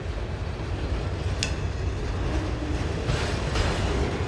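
Long freight train rolling slowly past, a steady low rumble, with one brief high metallic squeak about a second and a half in.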